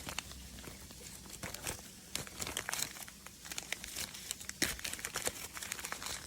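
A chocolate-bar wrapper crinkling and tearing in quick, irregular crackles, the loudest about two-thirds of the way through.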